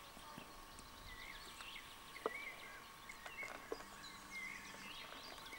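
Faint birdsong: many short chirping calls, with a single sharp click a little over two seconds in.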